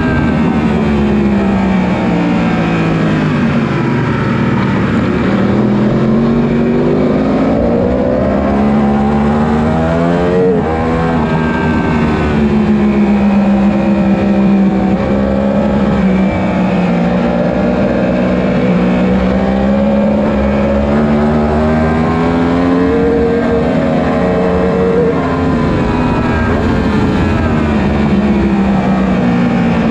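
1000 cc superbike racing motorcycle engine running hard at high revs, its pitch falling and rising again several times as the revs drop and build, lowest about 5, 19 and 27 seconds in.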